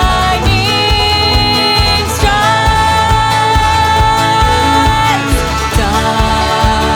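Instrumental passage of a full-band alternative rock song: long held melody notes that bend between pitches, over a steady drum and bass beat.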